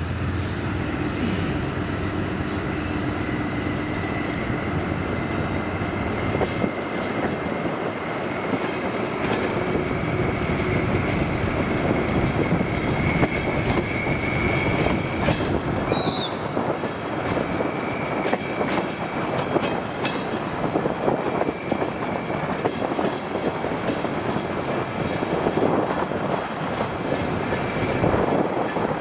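DR1A diesel railcar train running on the track, its wheels clicking over rail joints with a steady rumble, and a brief high wheel squeal about halfway through.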